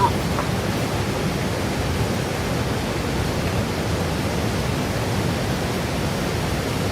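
A steady, even rushing noise that holds unchanged throughout.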